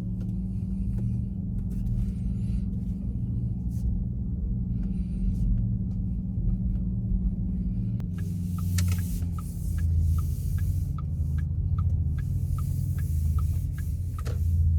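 Road rumble inside a Porsche Taycan's cabin while driving. From about eight seconds in, a turn-signal indicator ticks steadily, roughly three ticks a second, over a rise in hiss.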